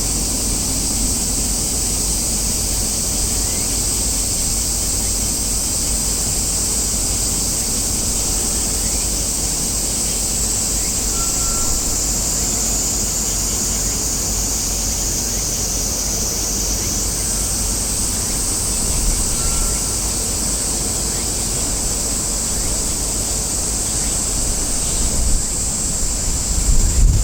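Outdoor ambience: a steady high-pitched hiss over a low rumble of wind on the microphone, with the rumble growing gusty near the end.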